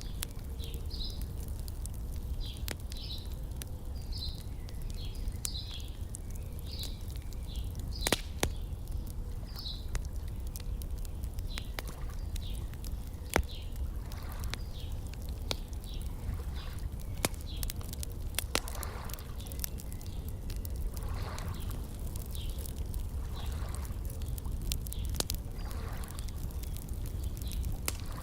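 Wood fire crackling with scattered sharp pops, a bird chirping in short repeated notes over the first ten seconds or so, and soft water sounds with a low steady rumble underneath.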